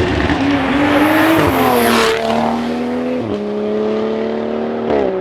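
A car accelerating hard. Its engine revs climb and then drop in steps as it shifts up through the gears, starting abruptly and staying loud throughout.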